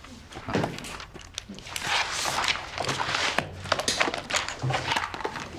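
Shuffling and light knocks of people moving about a room as a meeting breaks up, with scattered footsteps and thuds.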